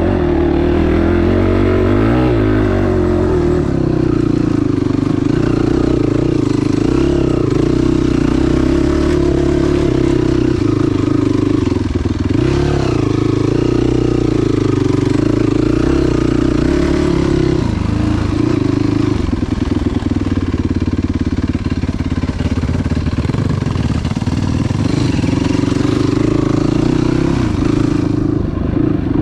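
Enduro motorcycle engine running under load while riding off-road, holding a fairly steady note. The engine note drops back for several seconds about two-thirds of the way through, then picks up again.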